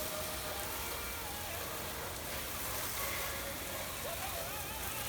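Steady rushing noise, with a small radio playing faintly underneath, its voices wavering in and out.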